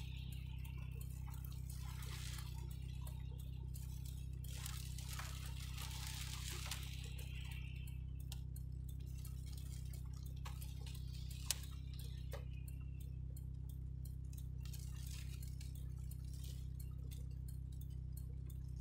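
Steady low engine-and-road drone inside a moving car's cabin, with scattered light ticks and a few soft swishing sounds; one sharper click about halfway through.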